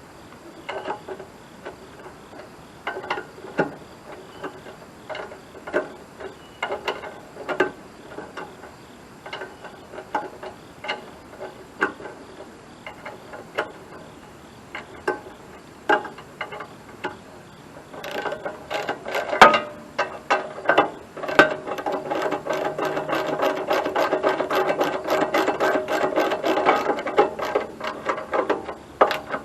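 Socket ratchet wrench clicking in short strokes as bolts are turned. About two-thirds of the way through, it changes to fast, continuous ratcheting.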